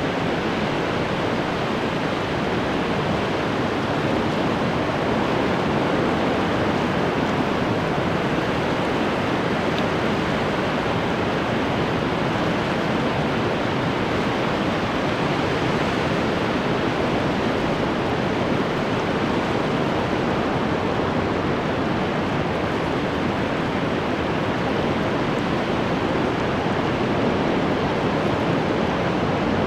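Ocean surf breaking continuously, an even roar of water with only slight swells in loudness.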